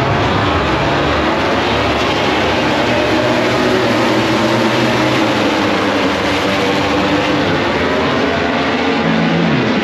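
Many motorcycle engines revving at once: a dense, loud wall of engine noise with many overlapping pitches rising and falling.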